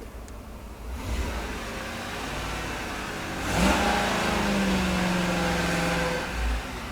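The 2010 Ford F-150's 4.6L SOHC V8 revved in neutral: a small rise about a second in, then a sharper climb about halfway through, held steady for a couple of seconds before it drops back to idle near the end.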